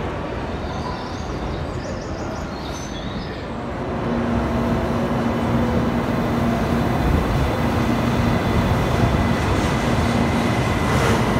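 A shinkansen bullet train rolling slowly beside a station platform: a steady rumble with a low hum running through it, which comes in about four seconds in over quieter platform noise.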